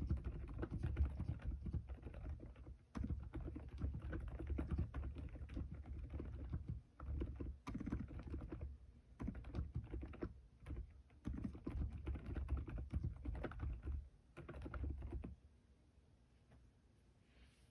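Typing on an Aula F108 mechanical keyboard fitted with Keychron K Pro silent banana switches: a fast run of soft, low key clicks with a few short pauses, stopping about fifteen seconds in.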